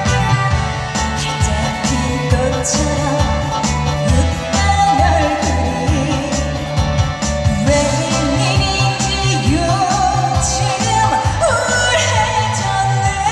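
A Korean trot song performed live: a woman singing with wavering vibrato over backing music with a steady drum beat.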